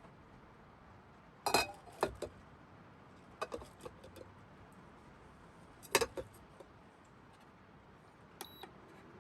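Dishes and glassware clinking and knocking in a series of sharp contacts as they are handled and set down, followed near the end by two short electronic beeps.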